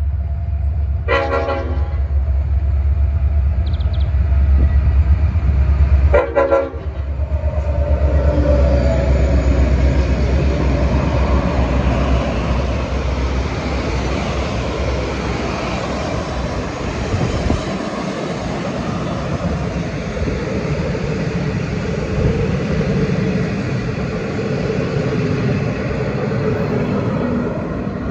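Passing passenger train led by Victorian Railways C and T class diesel-electric locomotives: the horn sounds twice, each blast about a second long and about five seconds apart, over a heavy low engine rumble. After the locomotives pass the rumble drops away and the carriage wheels keep rolling steadily on the rails.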